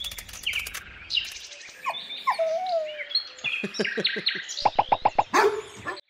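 Birds chirping in many quick, varied tweets. Near the end comes a fast run of short, rapid calls and a sharper louder one from a dog.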